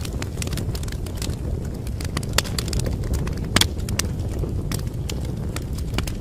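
Wood fire crackling: irregular sharp pops and snaps over a steady low rumble of the flames, with two louder pops about two and a half and three and a half seconds in.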